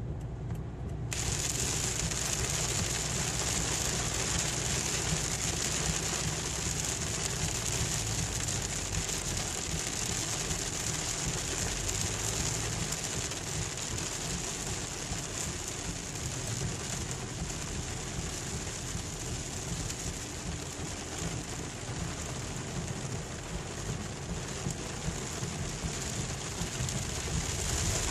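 Heavy rain hitting the car, heard from inside, starting suddenly about a second in and then steady, over the low rumble of the moving car.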